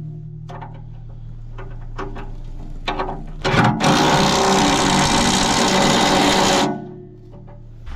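A handheld power tool, such as a drill or impact driver, runs continuously for about three seconds, then stops abruptly. This is most likely work on the bolts of the skid shoes on a snow pusher box. Before it come scattered clicks and knocks of tools being handled, over a low steady hum.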